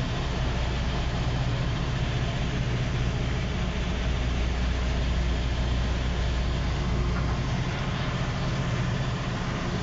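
Steady low engine drone with an even wash of noise over it, continuing without a break.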